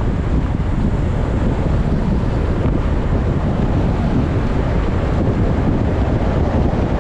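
Wind buffeting the microphone while cycling at speed: a steady, loud low rumble of rushing air.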